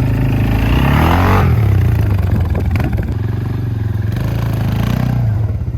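ATV engine running under throttle: it revs up over the first second or so, then runs steadily.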